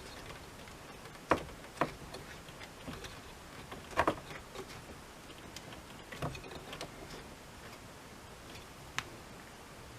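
Scattered sharp clicks and taps, five or so spread unevenly, from hands working on small parts during a dashboard bulb replacement.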